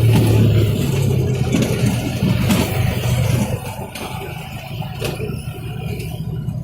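Train running with a low engine drone that fades away after about three seconds, with a few short knocks over the rumble.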